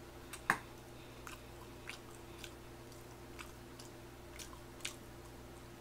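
A person chewing tteokbokki rice cakes with small, faint wet mouth clicks, and one sharper click about half a second in. A steady low electrical hum runs underneath.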